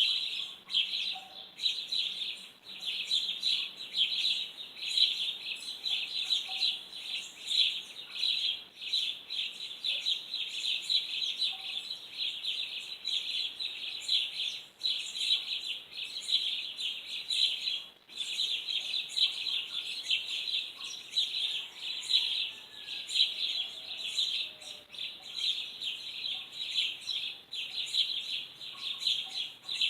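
Birds chirping in a dense, rapid, unbroken stream of high notes, pausing only briefly a few times.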